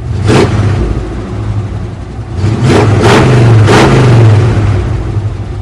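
Chevrolet 350 small-block V8 idling through true dual glasspack mufflers and being revved: one quick blip of the throttle at the start, then a run of several revs about two and a half seconds in, settling back to idle near the end.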